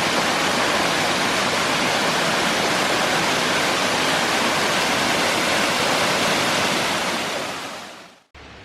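Water rushing down a small tiered waterfall cascading over rocks, a steady dense rush that fades out near the end.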